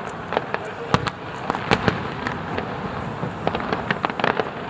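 Aerial fireworks going off: many sharp bangs and crackles in quick, irregular succession over a continuous background hiss.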